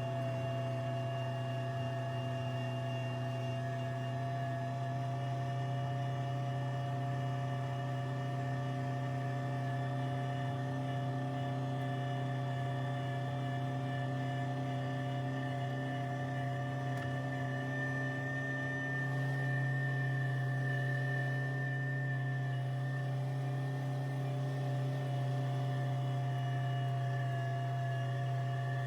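Tractor engine running at a steady speed, a constant droning hum that gets a little louder about two-thirds of the way through.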